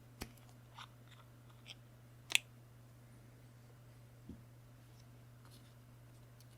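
A few short, sharp clicks and taps of small hard parts being handled during keyboard assembly, the loudest about two and a half seconds in, then a soft knock, over a low steady hum.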